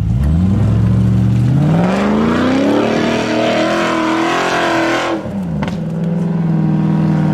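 Car engine revving. The pitch climbs over about three seconds, holds high, then falls back about five seconds in and settles to a steady idle.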